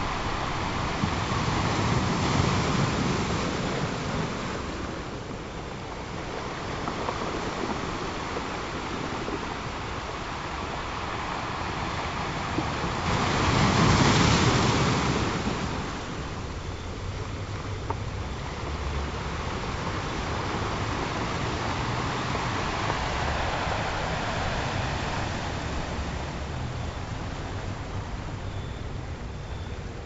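Ocean surf: waves breaking and washing in, the rush swelling and easing every few seconds, loudest about fourteen seconds in.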